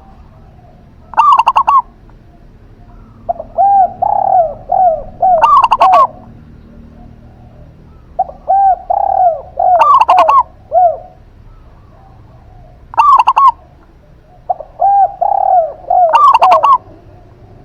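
Zebra dove and spotted dove cooing in turns. Short, loud, higher coos recur every few seconds. Three phrases of softer, lower, arching coos, each a few seconds long, come between them.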